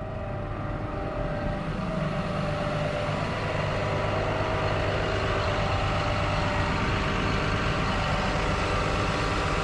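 Large farm tractor's diesel engine running steadily, a little louder over the first couple of seconds.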